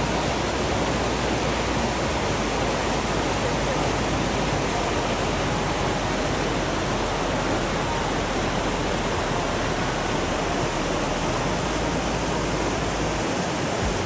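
Steady rushing of water, an even unbroken hiss and roar with no change in level.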